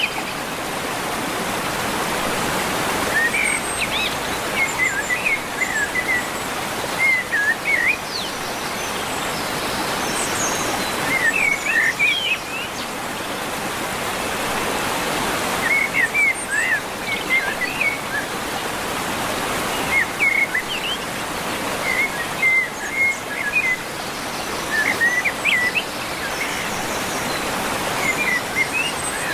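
Small birds chirping in short clusters every few seconds over a steady rushing noise like running water.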